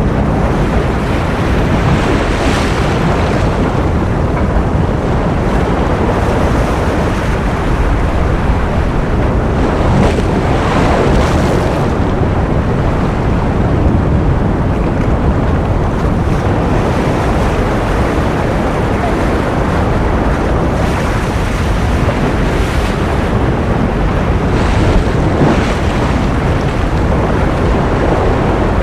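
Ocean surf as a continuous white-noise bed: a dense, steady wash of sound with a few faint swells of hiss as waves break.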